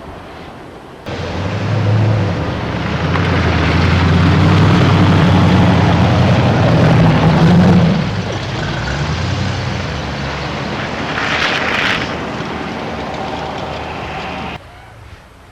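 Loud engine running close by, with a heavy rushing noise over it. It starts suddenly about a second in and cuts off abruptly near the end.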